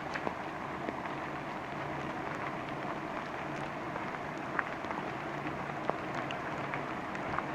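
Steady rain falling through a redwood forest: an even hiss, with a few sharp, separate drips hitting close by.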